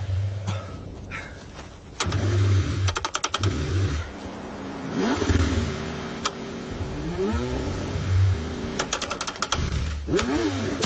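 Cold car engine cranking in repeated bursts of about a second, struggling to start. The cranking comes with rising and falling pitch glides and two runs of rapid clicking.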